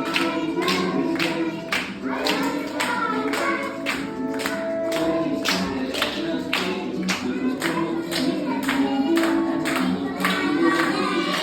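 A group of young children singing an English song together over music, with a steady beat of sharp claps or percussion about twice a second.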